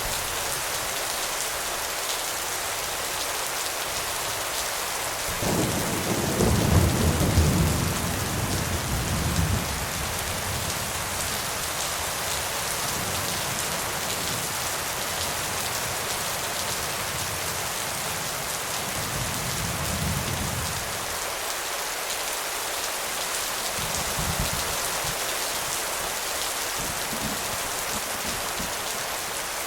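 Steady heavy rain falling, with rolls of thunder. A loud low rumble comes about six seconds in and lasts around four seconds, and fainter rumbles follow later.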